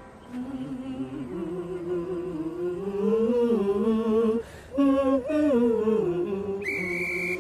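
Wordless humming of a melody that rises and falls, with a brief break about four and a half seconds in. Near the end a cartoon engine's whistle starts, a bright steady high tone with a breathy hiss.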